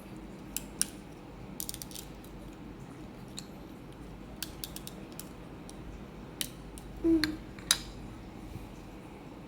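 Plastic Lego pieces clicking and tapping as they are handled and pressed together: scattered sharp clicks, a quick cluster about two seconds in and the loudest clicks near the end. A short low tone sounds once about seven seconds in.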